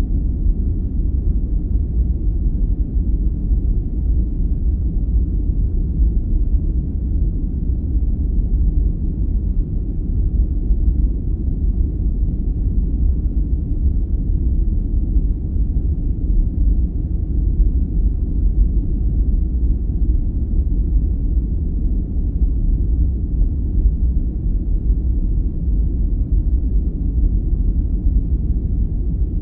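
Steady, deep, muffled noise that never changes, all low in pitch with nothing high or hissy: a sleep-aid noise track of the brown-noise kind.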